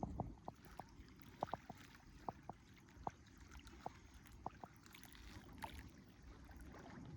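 Faint reservoir water lapping and gurgling over a low steady rumble, with a string of small, irregular plops.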